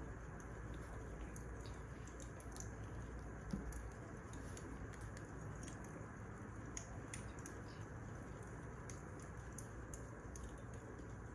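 Wood fire crackling: a steady soft hiss with scattered small sharp pops and crackles, and one soft thump a little over three seconds in.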